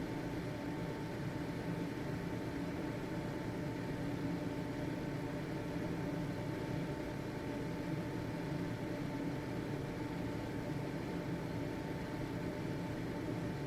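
Household ventilation fan running steadily: an even whoosh of moving air with a constant motor hum.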